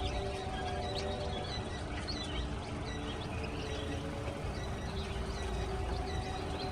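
A group of chicks peeping, with many short, high cheeps overlapping several times a second. Under them runs a low rumble and a steady hum that fades in the middle and comes back.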